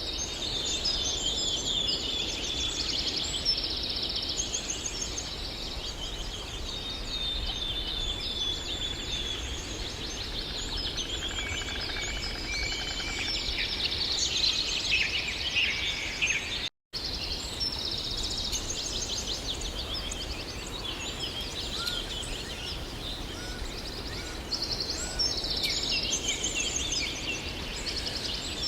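Several birds singing and calling at once, rapid trills and chirps overlapping, over a steady low outdoor background rumble. The sound cuts out for an instant about two-thirds of the way through.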